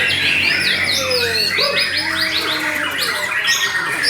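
White-rumped shama (murai batu) singing a dense, fast stream of sharp downward-sweeping whistles and chattering rattles ('kretekan'), with no pause.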